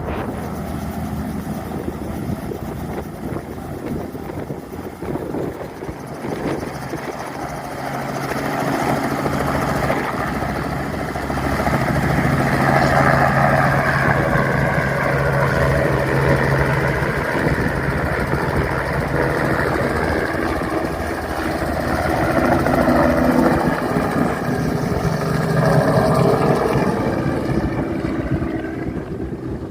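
Helicopter engine and rotor drone in flight: a steady low hum under a rushing noise, swelling louder twice.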